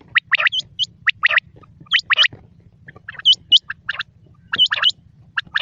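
Quail calling: a quick run of short, sharp, high notes in clusters of two or three with brief gaps between them, repeating throughout.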